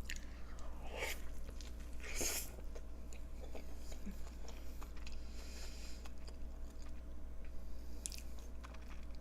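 A person biting into and chewing a carne asada burrito close to the microphone. There are short bites about one and two seconds in, then quieter chewing, and another bite near the end.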